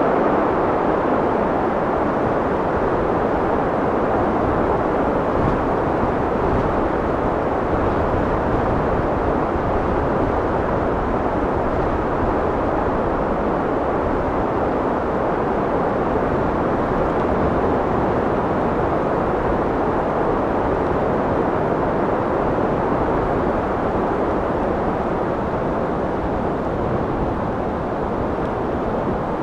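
Steady rushing wind, a continuous low roar with no gusts or breaks, easing off slightly toward the end.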